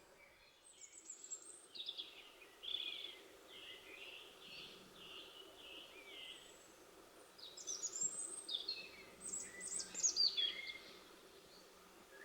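A songbird singing outdoors: a series of about six repeated notes, then two quick, high, tumbling phrases.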